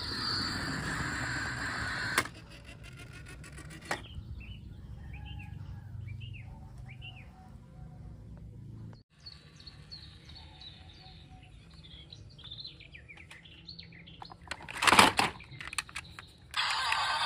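Birds chirping, short repeated high chirps over a quiet background, with a brief loud noise about fifteen seconds in.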